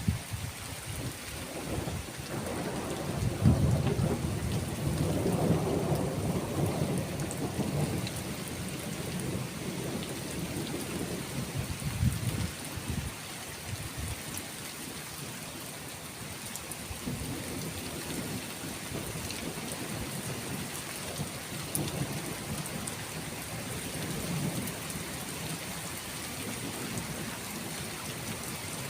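Steady rain falling through a thunderstorm with rolling thunder. A long low rumble builds a few seconds in and rolls on for several seconds, a sharper clap comes about twelve seconds in, and softer rumbles follow later.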